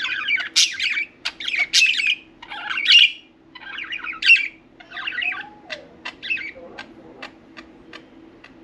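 Budgerigars chirping and squawking in rapid, overlapping chatter, which dies away about six seconds in, leaving a run of sharp ticks and clicks.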